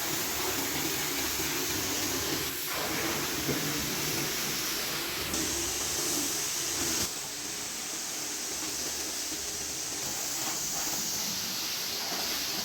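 Pressure washer spraying water on a car's bodywork: a steady hiss that shifts in level abruptly a few times.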